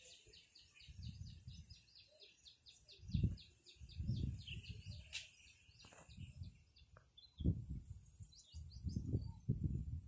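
A bird calling in a fast, even run of high chirps, about six a second, that fades out about halfway through. Gusts of wind buffet the microphone in low rumbles, loudest in the second half.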